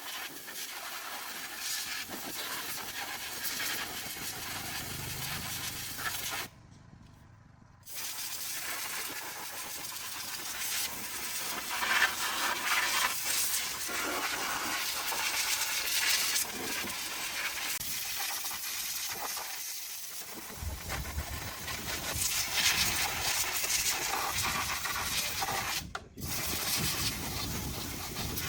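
Steady hissing noise, with a low rumble joining about two-thirds of the way through; it drops away briefly twice.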